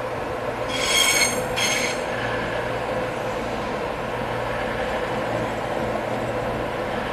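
A train running into the station with a steady rumble. About a second in there is a brief high-pitched squeal in two short parts, typical of wheels or brakes on the rails.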